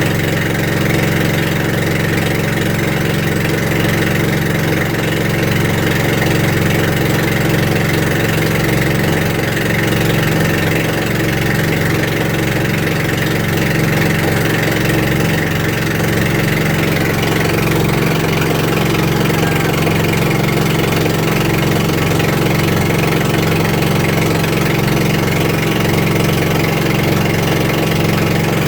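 A boat's engine running steadily under way, a constant drone with no change in speed.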